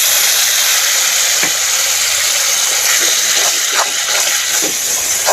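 Masala paste in hot oil in a kadai sizzling hard with a steady hiss just after water is poured in, with a few stirring scrapes in the second half.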